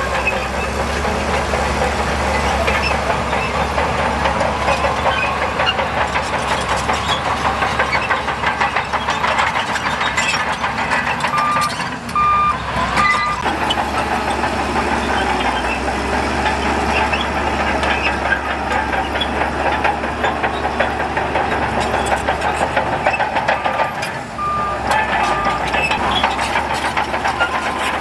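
Diesel engine of heavy earthmoving machinery running continuously under load. A reversing alarm sounds twice, each time three short beeps, about twelve seconds in and again near twenty-four seconds.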